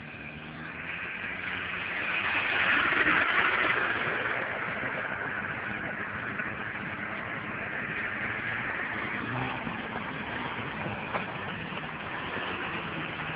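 Motorcycle engine running. It grows louder about two to three seconds in, then settles to a steady level.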